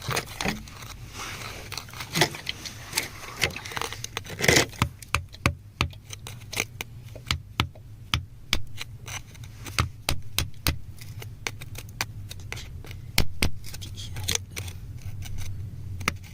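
Stones and grit being picked and scraped out of rock: many sharp clicks, taps and scrapes, some louder knocks about four seconds in and again near the end, over a low steady hum.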